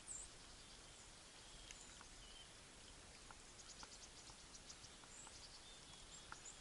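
Near silence: faint outdoor woodland ambience with a few brief, faint high chirps from small birds and scattered faint ticks.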